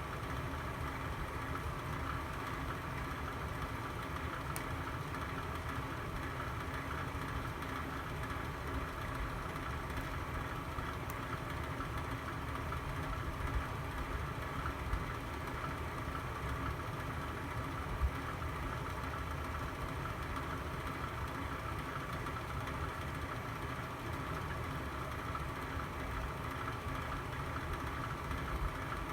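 Fireplace burning with a steady low rumble and hum, with a few faint pops about halfway through.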